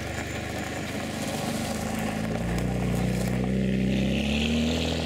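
Ferrari 599 GTB Fiorano's V12 engine pulling away at low speed. Its note rises in pitch and grows a little louder about two seconds in, then holds steady.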